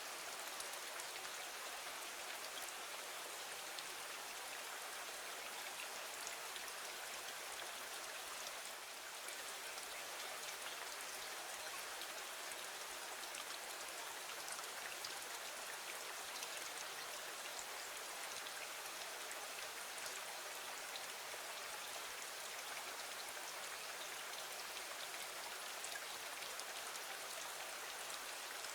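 Steady rain falling: an even hiss dense with many small drop ticks, unchanging throughout.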